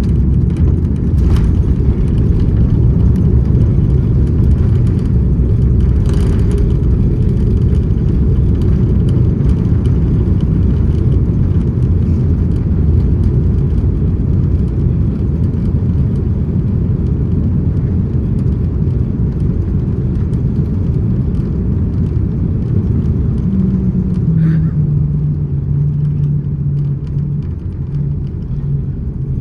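Airbus A330-200 cabin noise heard from a passenger seat: a loud, steady low rumble. About 24 seconds in, a hum drops in pitch and the rumble eases a little.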